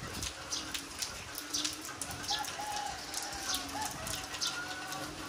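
Heavy rain falling steadily on a yard, with short sharp splashes from drips close by. Birds call faintly through the rain, a few wavering calls in the middle.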